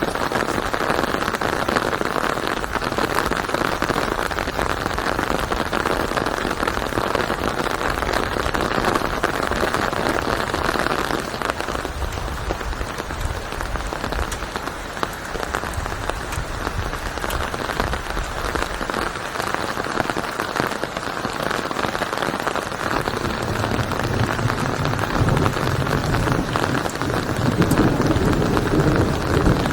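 Steady rain falling and pattering on a surface, with a low rumble building near the end.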